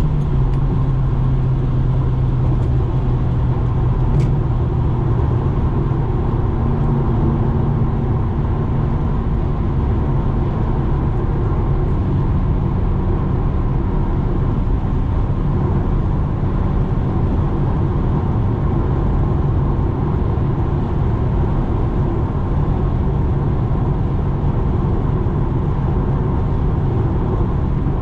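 Subaru WRX's turbocharged flat-four running through a straight exhaust with the muffler and resonator removed, a steady loud drone under light cruising, its pitch shifting slightly about twelve seconds in.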